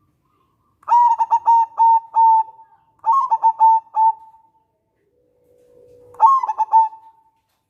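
A local zebra dove (perkutut) cooing in three phrases. Each phrase is a quick run of clipped notes ending on a held coo, with the third coming after a pause of about two seconds.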